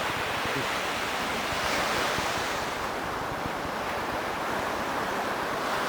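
Steady noise of surf breaking on the beach with wind on the microphone, easing slightly in the middle and swelling again.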